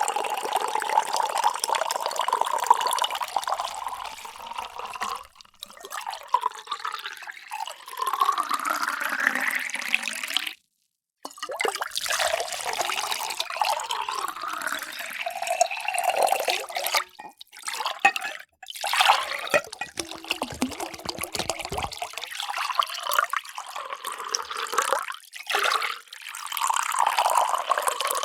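Water pouring into containers in several separate pours with brief breaks between them; the pitch of the splashing rises as each vessel fills.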